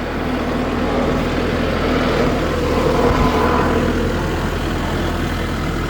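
Kubota tractor's diesel engine running under load in low range, the sound swelling for a moment around the middle.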